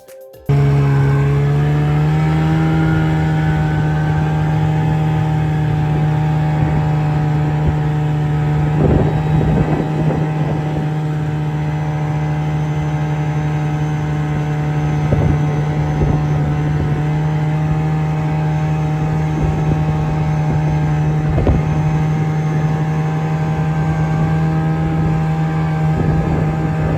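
Snowmobile engine running at a steady cruising speed. It picks up a little in pitch over the first couple of seconds, then holds an even note, with a few brief knocks along the way.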